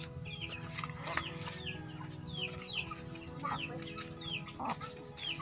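A bird chirping over and over, short falling chirps about twice a second, over a steady low hum.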